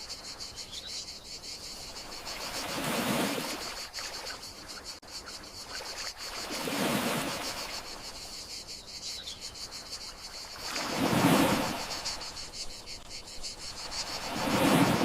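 Gentle sea waves washing in and drawing back, four swells about four seconds apart, over a steady, fast-pulsing trill of crickets.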